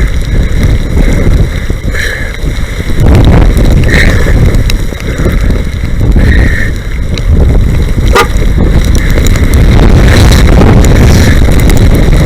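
Strong storm wind buffeting the microphone of a moving bicycle rider: a loud, gusting low rumble, with a few short high squeaks.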